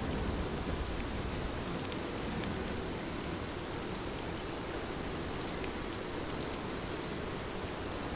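Heavy rain pouring steadily, with scattered drop ticks, and a low rumble of thunder dying away in the first second.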